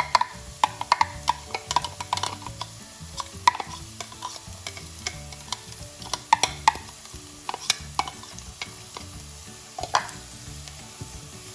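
Chopped onion sizzling in hot ghee while a spoon stirs it, knocking and scraping against the pan many times, most often in the first few seconds. The onion is being sautéed until golden.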